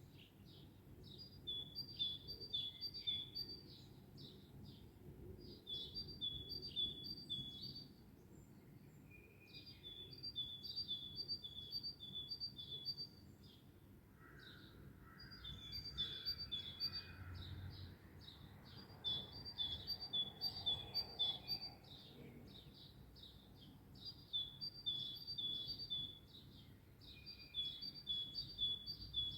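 Songbird singing bouts of a quickly repeated two-note phrase, each bout a couple of seconds long with short pauses between, over a faint low background rumble.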